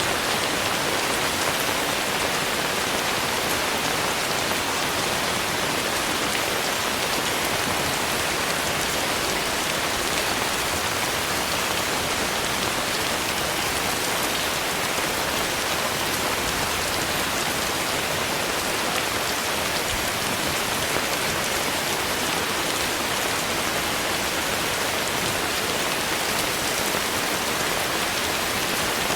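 Steady rain falling: an even, unbroken hiss of rain with dense patter of drops on surfaces.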